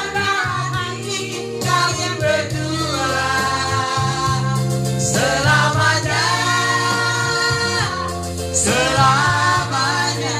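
A group of voices singing a slow song in long held notes over a steady instrumental accompaniment.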